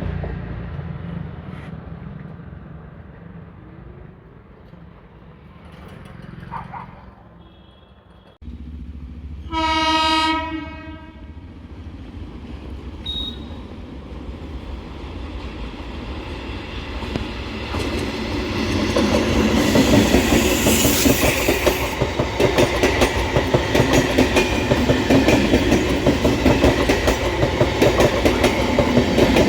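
An electric local train sounds one short horn blast about ten seconds in. It then approaches and passes close by from about eighteen seconds on, its wheels clattering rhythmically over the rail joints.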